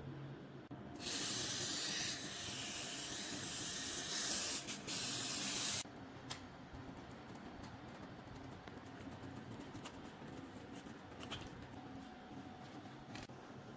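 A long hiss of pressurised spray from a nozzle, about five seconds with a brief break near the end, cutting off suddenly. Faint clicks of handling follow.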